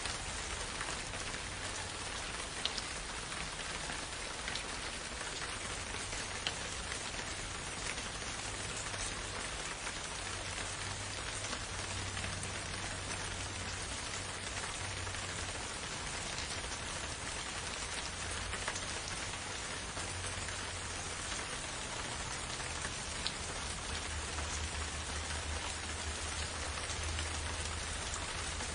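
Steady, gentle rain falling, with a few louder single drops ticking close by.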